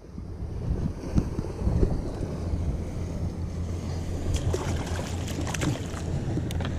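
Wind buffeting the microphone, with water lapping around the kayak. About four seconds in comes a cluster of light clicks and taps that lasts a couple of seconds.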